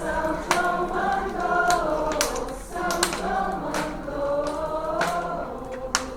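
A group of voices singing together in a choir-like unison, holding long notes through a slow melody. Sharp clicks or cracks punctuate it every second or so.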